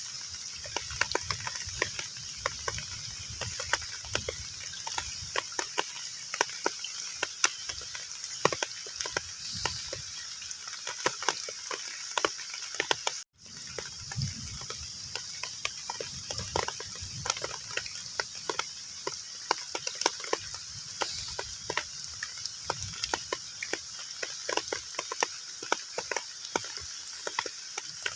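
Heavy rain falling on a pond's surface: a steady hiss with many separate drop splashes and patters. The sound cuts out for an instant about halfway through.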